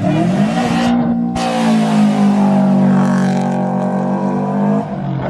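Car engine revved up and held at a steady high pitch for about three seconds, dropping away shortly before the end.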